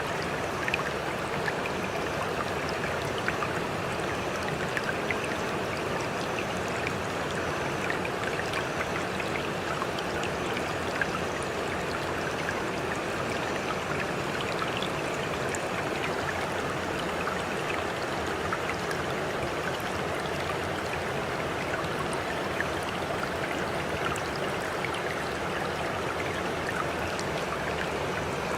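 Running water flowing steadily, an even rush with small splashes and drips ticking through it.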